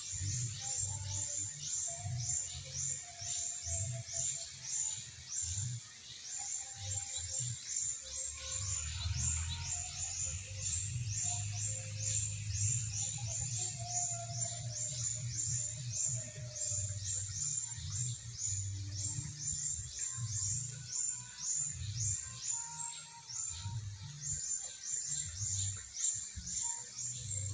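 High-pitched chirps repeated steadily, several a second, each a quick downward sweep, over a low rumble of wind on the microphone.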